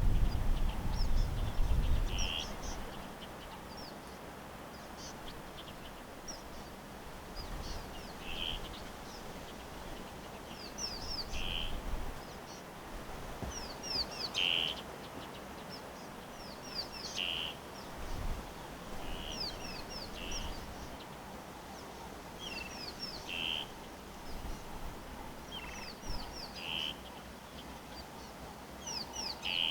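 Wild birds calling: quick high chirps sweeping down in pitch, repeated throughout, with a short lower call every few seconds, over a steady outdoor hiss. A low rumble in the first two seconds.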